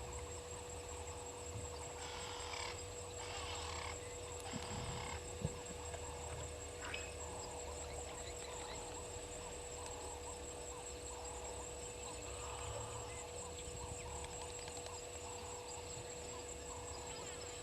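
Waterhole ambience with wild animal calls: three short, raspy calls in quick succession about two seconds in, a sharp click just after, then repeated faint chirping, over a steady hum.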